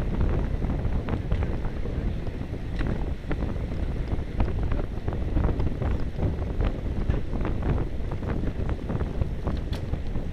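Wind rushing over the microphone of a moving bicycle: a steady low rush with many small irregular ticks and rattles.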